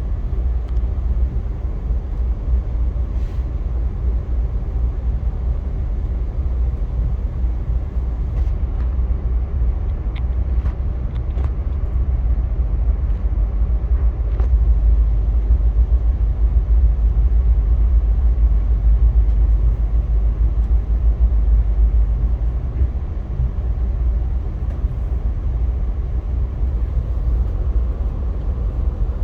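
Via Rail passenger train running on the line: a steady, deep rumble with a few faint clicks, swelling a little louder about halfway through.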